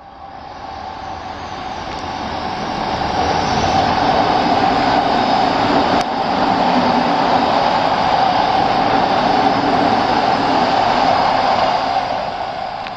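Odakyu 4000 series electric commuter train running past at speed. Its steady rumble of wheels and running gear builds over about four seconds, holds, and fades near the end.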